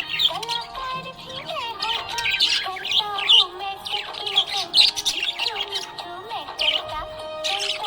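Budgerigars chirping in many quick, high bursts over background music with a gliding melody.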